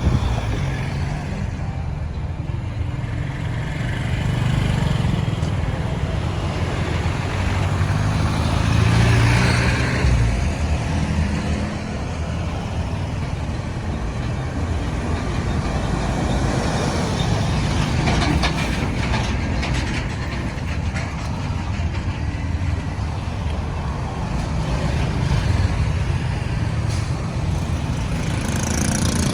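Steady road traffic noise: engines and tyres of trucks, cars and motorbikes on a busy road, with a louder swell about nine seconds in.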